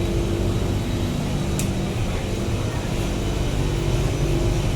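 Steady hum of a Singapore MRT Circle Line train, with several held electrical tones over a low rumble, and a short click about one and a half seconds in.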